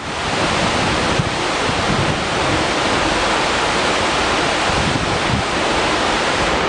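Seljalandsfoss, a 60 m waterfall, rushing steadily. The sound fades up over the first half second.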